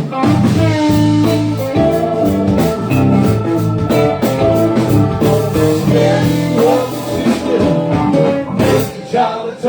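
Live band playing a bluesy rock song: a singer's voice over guitar, with steady low notes underneath.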